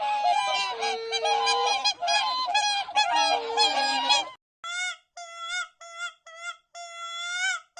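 Geese honking: a flock of many overlapping honks for about four seconds, then after a short break a single goose giving a series of separate short honks with one longer drawn-out honk near the end.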